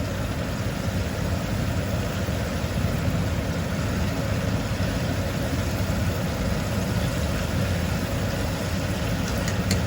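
Floured chicken pieces deep-frying in hot oil at about 350 °F: a steady, dense sizzle with a low rumble under it.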